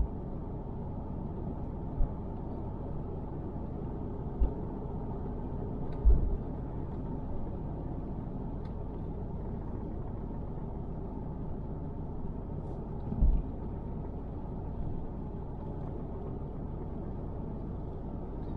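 Road noise inside a moving car: a steady low rumble of tyres and engine, with five short low thumps along the way.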